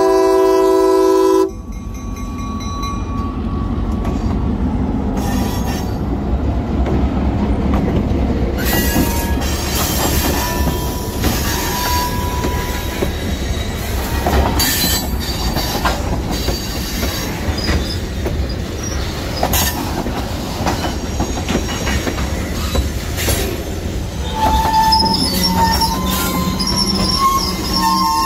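An EMD GP9R diesel locomotive's air horn chord cuts off about a second and a half in. Then the locomotive's diesel engine rumbles past and a string of tank cars rolls over the crossing, wheels clicking on the rail joints. Near the end the wheels start squealing in high tones.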